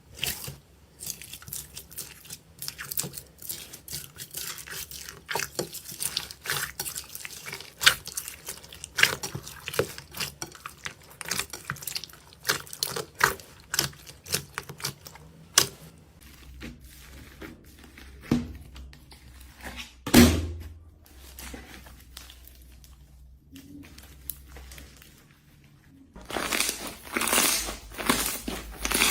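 Slime being squished and stretched by hand, giving many wet clicks and pops. They thin out midway, with one heavier thud, then become dense crackling again near the end.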